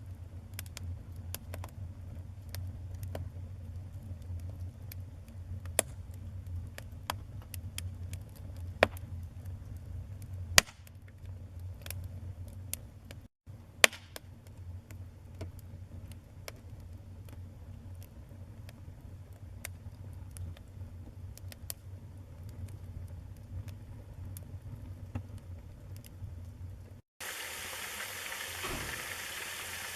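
Wood fire burning in a fireplace: a low rumble with scattered crackles and several loud pops and snaps. Near the end the sound changes to a steady hissing with few crackles.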